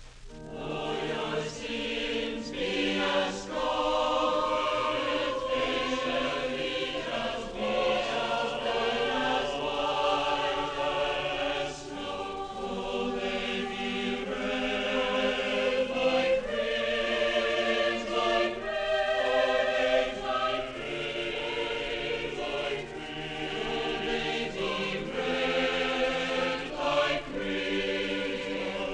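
Choir singing in harmony, several voice parts overlapping with vibrato on held notes.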